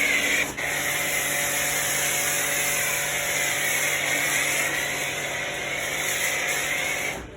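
An electric cleaning machine runs steadily, giving a constant motor whine and hum over a loud hiss, with a brief dip about half a second in. It cuts off abruptly near the end.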